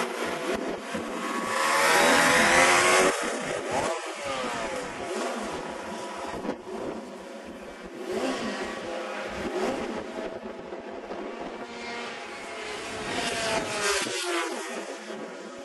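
Racing motorcycles passing at speed one after another on a race circuit, their engines rising and then dropping in pitch as each goes by. The loudest pass comes about two to three seconds in, and further passes follow later.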